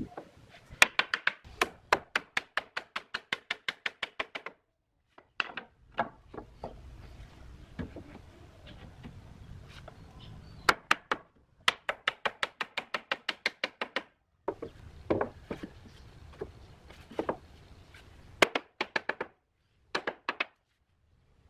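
Rapid, evenly spaced knocks of a tool striking wood, about five a second, in several runs broken by sudden cuts to silence.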